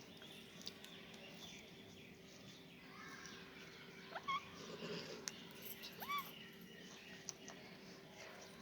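Pet parrot giving short squawking calls, two brief pitched calls with upward-curving arched pitch about four and six seconds in, amid scattered faint clicks over a steady low hum.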